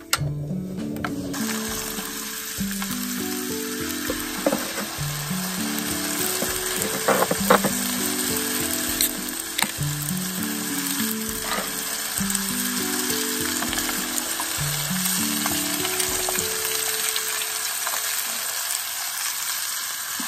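Oil sizzling steadily in an aluminium foil tray of ajillo on a gas burner, picking up about a second in, with a few light knocks, over soft background music.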